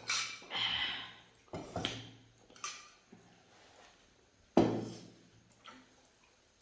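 Eating noises at a meal of momo and soup: a few short wet smacks and clicks in the first three seconds, then one sharp knock, the loudest sound, about four and a half seconds in, and quiet handling after it.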